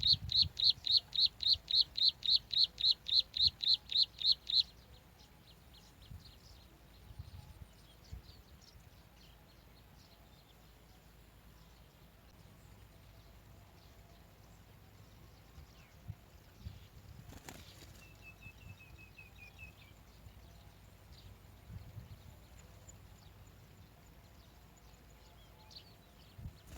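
A bar-winged prinia giving a fast, loud run of high, sharp notes, about four or five a second, that stops about four and a half seconds in. After that come only faint scattered chirps, a single click, and a short falling trill of notes.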